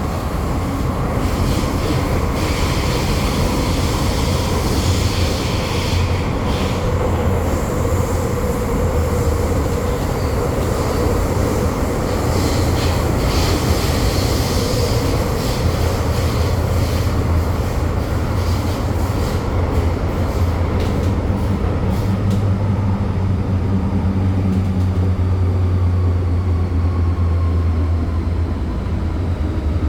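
MTR M-train electric multiple unit running at speed: a steady rumble of wheels on rail with a low hum, a few quick clicks about two-thirds of the way in, and a whine falling slowly in pitch near the end as the train begins to slow.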